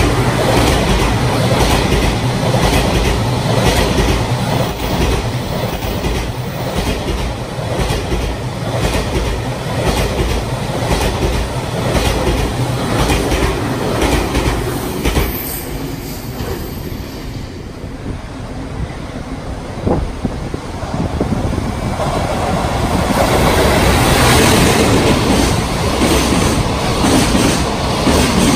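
Container freight train passing close at speed: the JR Freight M250 series Super Rail Cargo electric freight unit rumbling by, its wheels clacking rhythmically over rail joints. The noise eases off past the middle, then swells again as a second container freight train rushes past.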